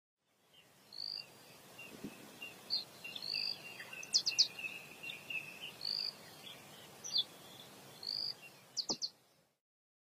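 Birds calling: short whistled notes repeated every second or two, with quick chipping trills and a wavering higher song over a faint hiss. Starts about a second in and stops abruptly after about nine seconds, with two faint knocks.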